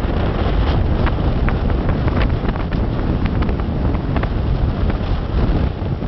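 Snowstorm wind buffeting the camera microphone: a loud, steady low rumble and hiss, with scattered short ticks throughout.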